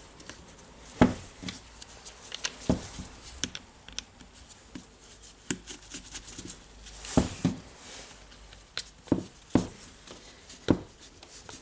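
Irregular clicks and knocks of small rotary-hammer parts being handled and fitted by hand during reassembly. The sharpest knock comes about a second in, with another cluster around the middle.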